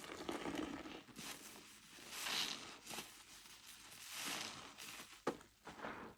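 Orange car wash sponge with Zote soap flakes, squeezed by hand, crackling and squishing in swells about every two seconds, with one sharp click near the end.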